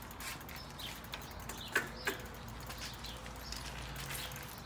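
Faint bird chirps over a steady low outdoor rumble, with two sharp clicks near the middle.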